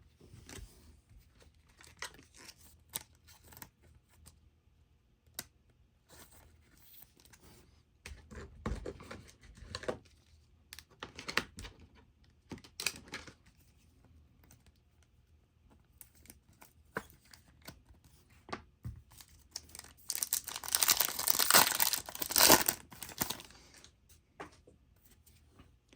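Trading cards and packs being handled, with scattered light clicks and rustles. About 20 seconds in comes a loud few-second crinkling tear as a card pack's wrapper is ripped open.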